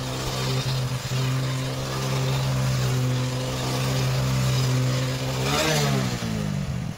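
Motorcycle engine held at steady high revs while the rear tyre spins against the road in a circle burnout. About five and a half seconds in, the pitch rises and then falls away.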